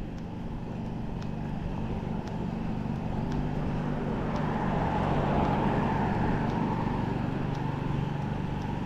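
A car passing on the road, its engine hum and tyre noise swelling to a peak about midway and then fading. Faint sharp ticks sound about once a second throughout.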